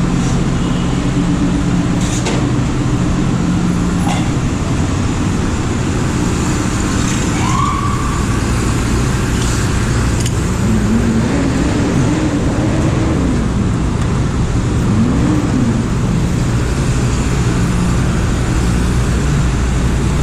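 Highway traffic: a steady loud rumble of passing vehicles with an engine hum underneath. Around the middle, a few brief tones rise and fall.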